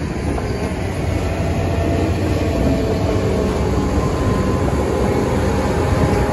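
Freight train rolling slowly over a road crossing: boxcar wheels running on the rails with a steady low rumble, joined about midway by the diesel engine of locomotive OMLX 1050 as it passes. No crossing bell sounds; the crossing signals failed to activate.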